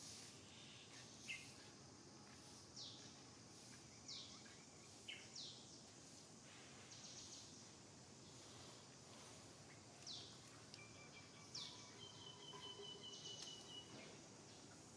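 Faint bird chirps: short, high notes sliding downward, heard about six times at irregular gaps of one to three seconds over a low background hiss, with a thin held trill joining in near the end.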